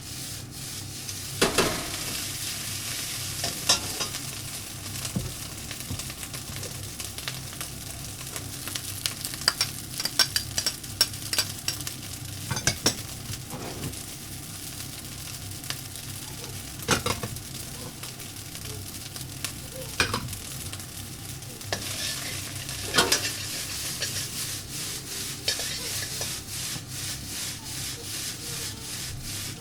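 Salmon fried rice stir-frying in a hot pan: a steady sizzle with frequent scrapes and clinks of a utensil against the pan, and several louder knocks.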